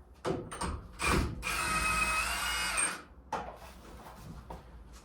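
A couple of metallic knocks, then a power tool runs steadily for about a second and a half and stops, with more light tool clatter after it.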